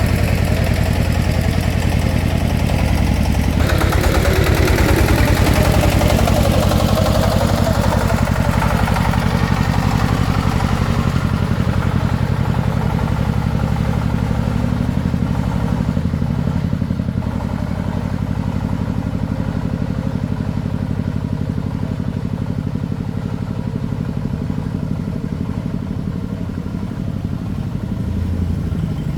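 An engine running steadily with a fast, even beat. Extra rattling noise builds about four seconds in and fades by about ten seconds in.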